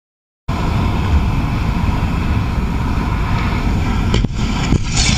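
Steady rumble of a moving car's engine and road noise, with wind noise, picked up by a dashcam. It starts abruptly about half a second in, with a couple of faint knocks about four seconds in.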